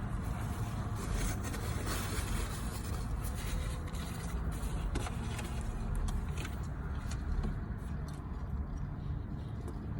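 Steady low rumble of a car engine idling, with scattered light clicks and rustles over it.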